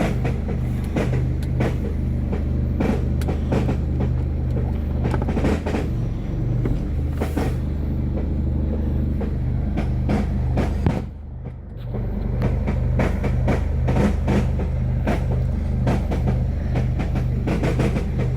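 2011 Mercedes-Benz E200 (W212) engine idling with an erratic metallic rattling and clatter of irregular knocks over its steady hum. The uploader suspects the timing chain, flywheel, mounts or injectors. The sound goes briefly quieter about eleven seconds in.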